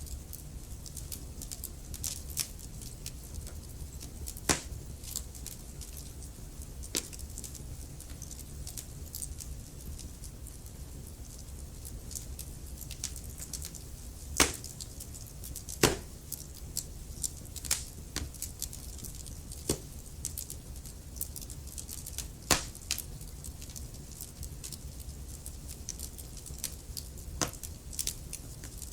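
Wood fire burning in a fireplace, crackling with sharp pops at irregular intervals over a low, steady rumble; the loudest pops come about halfway through.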